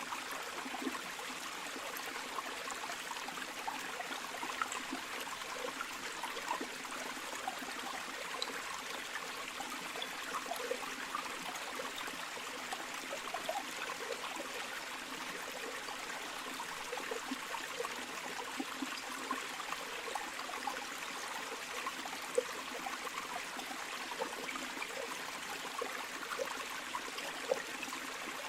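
Shallow river or stream flowing steadily, a continuous rush with many small gurgles and splashes.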